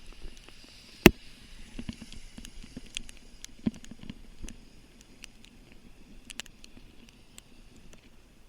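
Raindrops tapping irregularly on the camera and microphone, light scattered ticks over a faint hiss, with a sharp knock about a second in and a smaller one near four seconds.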